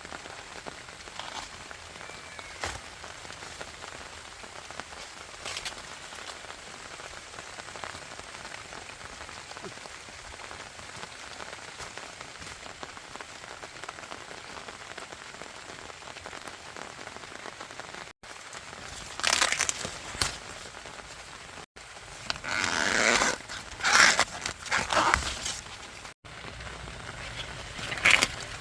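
A steady, even hiss like light rain with a few faint ticks. After abrupt cuts, several loud bursts of crackling rustle follow: dry plant material such as corn stalks or husks being handled.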